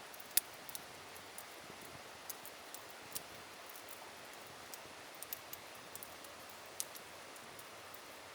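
Campfire crackling, with scattered sharp pops at irregular intervals (the loudest about half a second in) over a steady background hiss.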